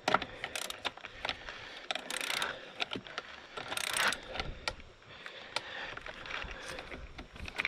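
Ratchet of a torque wrench clicking and rasping in short runs as a bolt on the motorcycle's rear end is tightened.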